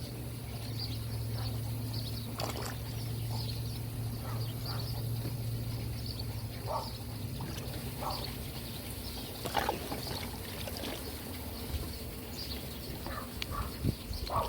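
Pool water splashing and pouring as the pool is vacuumed, over the steady low hum of the running pool pump, which fades somewhat about halfway through. Short chirps come and go throughout.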